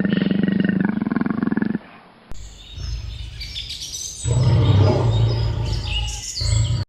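Animal calls: a long, pitched call that stops a little under two seconds in. After a cut comes a deep, low call with birds chirping over it.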